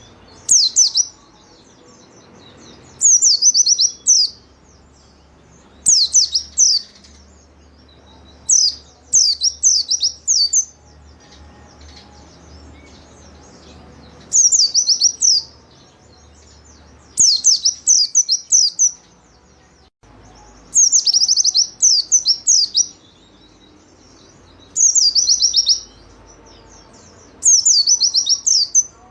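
A white-eye (pleci) singing in short bursts of rapid, high chirping notes, repeated about every three seconds. This is the lively 'gacor' song used to train or lure other caged white-eyes.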